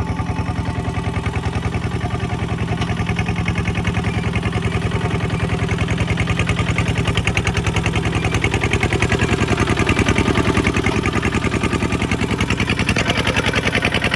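Kubota single-cylinder diesel engine running steadily with a rapid, even chugging beat, a little louder around the middle.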